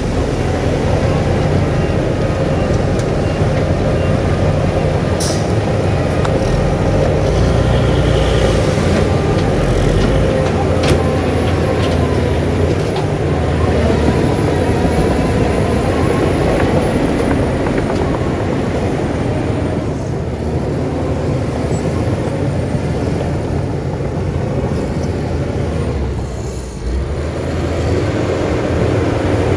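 Heavy diesel earthmoving machinery running steadily under load, with a few sharp metallic clanks and a brief dip in engine sound near the end.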